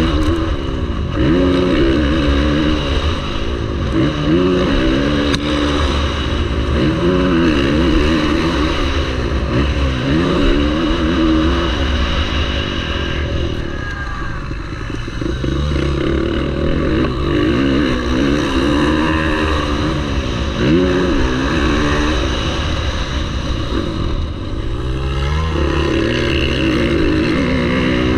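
Motocross bike engine revving hard, its pitch climbing and dropping again every couple of seconds as the throttle is opened and shut through the gears.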